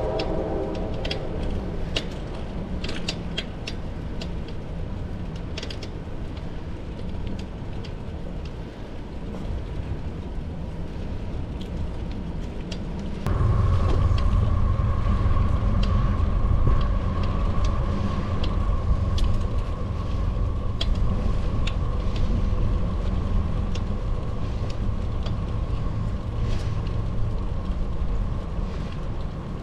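Road noise of a bicycle ride: a steady low rumble of tyres and wind on the microphone, with scattered sharp clicks and ticks. The tail of a passing train's horn fades out in the first moment. About thirteen seconds in, the rumble jumps suddenly louder and a steady hum joins it.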